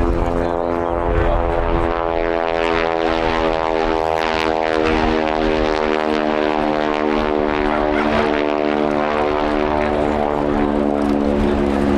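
North American NA-64 Yale's nine-cylinder Wright R-975 radial engine and propeller droning steadily in flight, a continuous pitched engine note.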